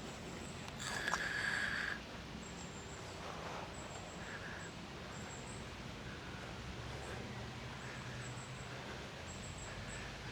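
Quiet outdoor ambience on a woodland path, with one brief pitched call about a second in, lasting about a second.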